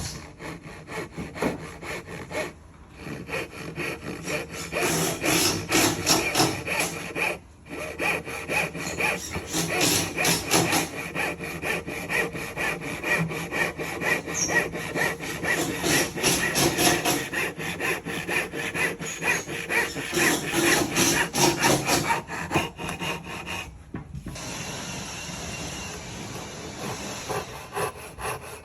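Hand saw cutting timber for a wood joint: quick repeated saw strokes with a few short pauses. Near the end it gives way to a softer, steadier rasping.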